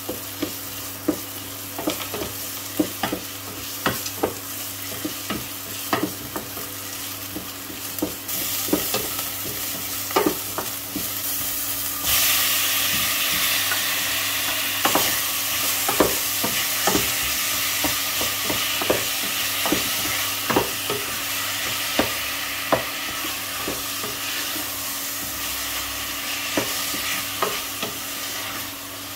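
Chopped onion and chili sizzling in a stainless steel pot, stirred with a wooden spoon that knocks against the pot about once a second. About twelve seconds in, sliced raw meat is tipped in from a cutting board and the sizzling gets suddenly louder.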